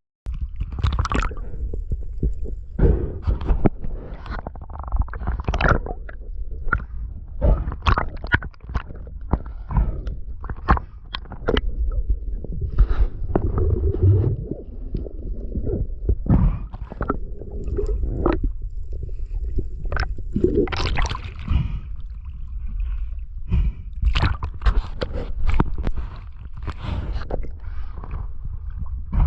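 Water sloshing and gurgling, muffled, with many irregular knocks and splashes over a low rumble, as heard from a camera moved through the sea while spearfishing.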